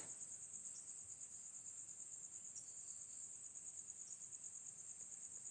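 Crickets chirring in a steady, fast, high-pitched trill, faint and unbroken.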